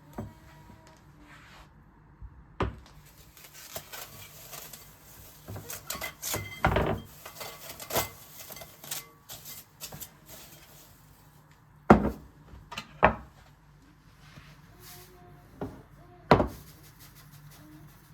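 Kitchen handling sounds: scattered knocks and clatter of items being picked up and set down, loudest about twelve and sixteen seconds in.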